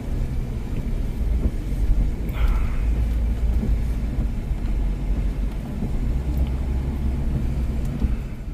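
Pickup truck driving on pavement, heard from inside the cab: a steady low rumble of engine and road noise.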